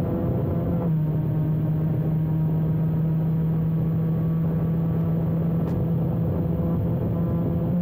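Cagiva Mito's 125 cc two-stroke single-cylinder engine running hard at steady high revs, heard onboard over wind noise. Its note holds almost constant, with a slight change just under a second in.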